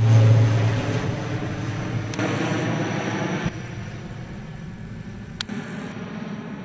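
Jet airliner engine noise fading as the aircraft moves away. The low steady hum drops out in the first second, leaving a broad rush that thins and falls in level, with a couple of abrupt drops along the way.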